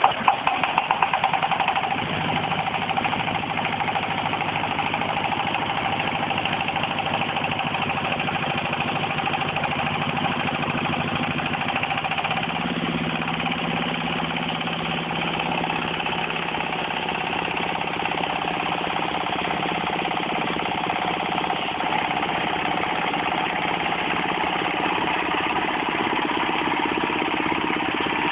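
22-horsepower diesel engine of a pellet mill running up to speed just after start-up, with the mill itself declutched. There are a few loud uneven beats in the first couple of seconds, then it runs steadily, and its low note changes about twelve seconds in.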